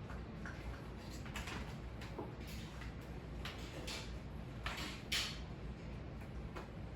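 A series of soft swishing strokes across a floor, irregularly spaced about every half second to a second, with a low steady hum underneath.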